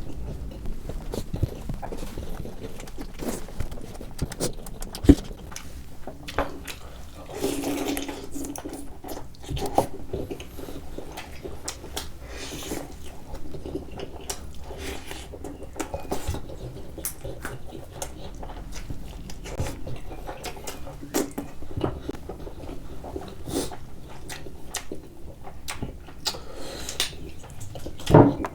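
Close-miked eating sounds: chewing, biting and wet smacking of sauced turkey wings, with many small sharp clicks. There is a sharper knock about five seconds in and another near the end.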